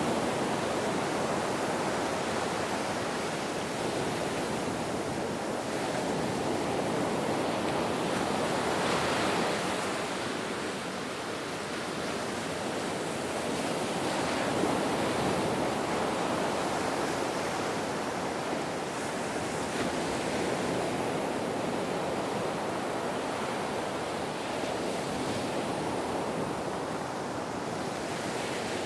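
Ocean waves washing ashore in slow, gentle swells, a continuous hiss of surf that rises and falls every few seconds.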